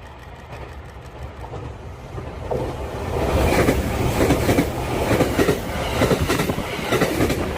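JR Kyushu 883 series electric express train passing close by. Its rumble swells over the first three seconds into a steady loud run of wheels clacking over the rails.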